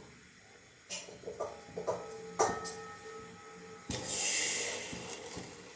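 Metal kitchenware being handled: a string of knocks, several of them ringing briefly like a struck pot or kadai. About four seconds in, a click is followed by a high hiss lasting about a second and a half.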